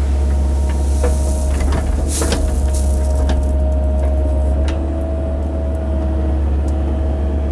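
Excavator engine running with a steady low drone and a steady whine, with a scatter of sharp clicks and knocks between about one and three and a half seconds in as the machine works.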